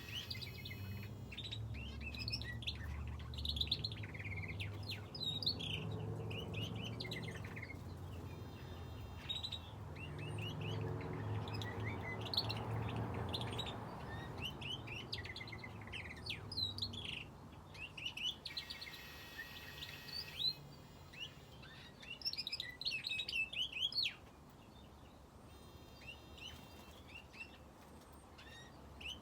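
Aviary finches and a canary chirping and calling, with many short high notes and a few buzzy phrases. A low hum sits under the first half and fades out about two-thirds of the way through.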